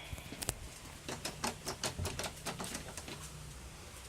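A run of light, irregular clicks and taps, quickest in the first two seconds and thinning out after.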